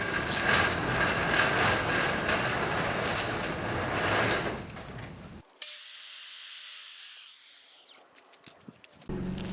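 Power saw cutting through a wooden board, a loud, even rasp for about five seconds that stops abruptly, followed by a fainter high hiss that dies away.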